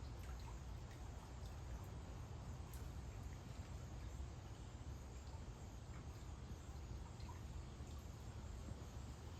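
Faint backyard outdoor ambience: a steady low rumble with a few faint, irregularly spaced ticks and chirps.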